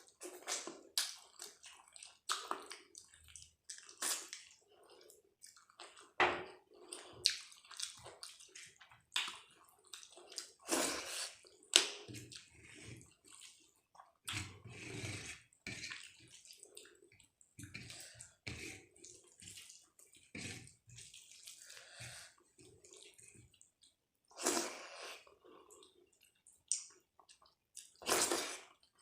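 Wet chewing and lip-smacking of a person eating, heard close to the microphone as a string of irregular squelches and clicks.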